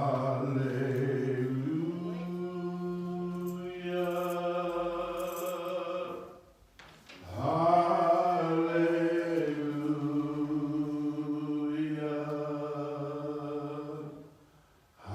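A man singing slow, drawn-out wordless notes in two long phrases of about six seconds each, the pitch stepping up early in each phrase, with a short breath between them.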